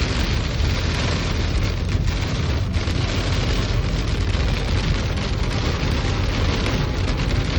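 Heavy rain drumming steadily on a car's roof and windows, heard from inside the cabin as a dense, even roar with many small sharp hits.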